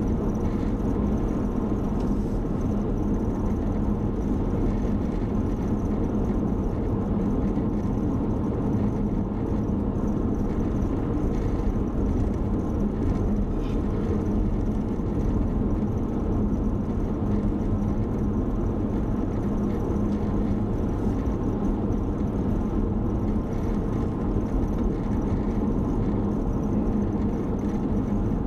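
Steady road and engine noise inside a moving car's cabin, a low rumble with a constant hum, as it drives along at an even speed.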